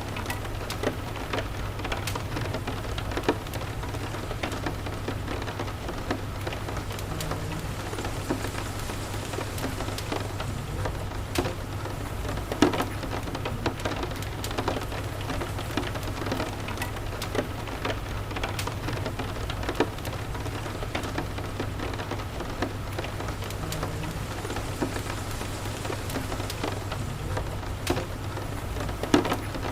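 Steady rain falling, with a wood fire crackling in scattered sharp pops, one louder pop about halfway through.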